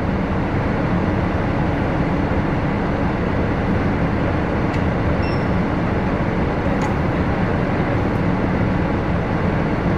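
Steady running noise of a vehicle or machinery: a low, even rumble with hiss and no breaks.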